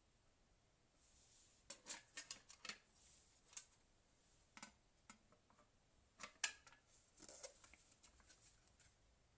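Faint, sharp clicks and light taps of small hard parts being handled: a quick run of them, a few single clicks, and about a second and a half of scratchy rubbing near the end.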